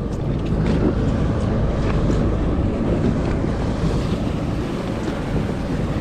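Wind buffeting the microphone over water washing against a small fishing boat, a steady rushing noise with a few faint ticks.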